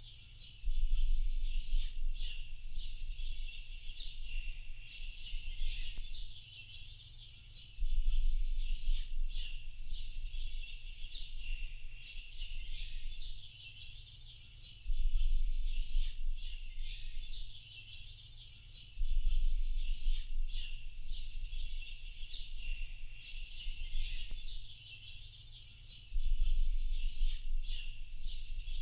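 A dense chorus of small birds chirping and twittering without a break, with a low rumble that cuts in suddenly about five times, several seconds apart, and is the loudest sound while it lasts.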